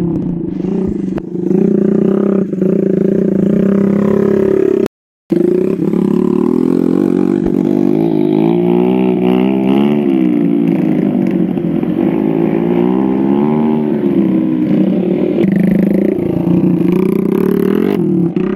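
Motorcycle engine running steadily, its pitch wavering up and down with the throttle. The sound drops out completely for a moment about five seconds in.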